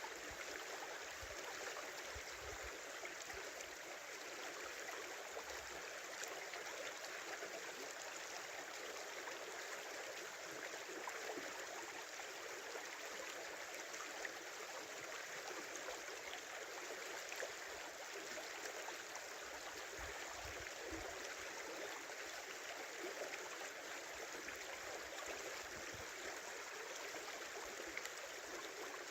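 Small river flowing and babbling steadily.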